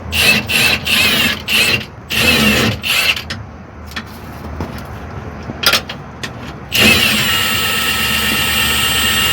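Cordless impact wrench on a rear shock absorber mounting bolt: two short bursts in the first three seconds, then a longer steady run from about seven seconds in.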